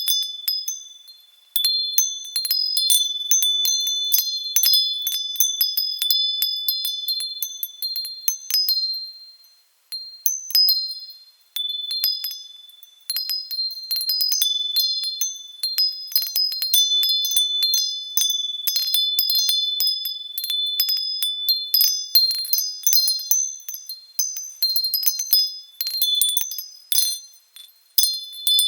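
Wind chimes tinkling with high-pitched ringing tones, struck in irregular clusters that ring on and fade, dying away briefly about nine seconds in and again near the end.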